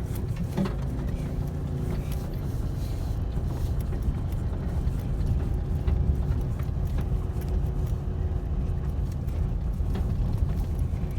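A motor vehicle running: a steady low rumble with a faint hum and scattered light clicks.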